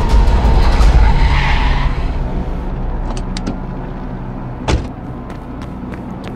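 Car tyres screeching under hard braking and a swerve, loud for about two seconds and then fading away. A single sharp thud about four and a half seconds in.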